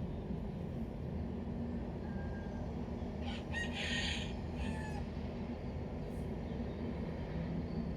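A single bird call lasting about a second and a half, starting about three and a half seconds in, over a steady low background rumble.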